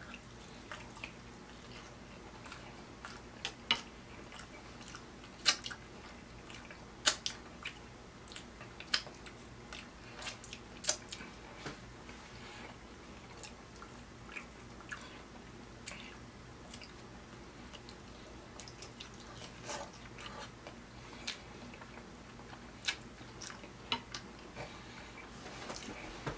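Close-miked chewing and biting of tender steak and baked beans: wet mouth clicks and smacks at irregular intervals, a few much louder than the rest, over a faint steady hum.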